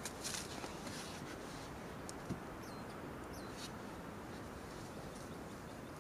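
Quiet forest ambience with a brief rustle at the start, then a few short, high bird chirps that drop in pitch, around the middle.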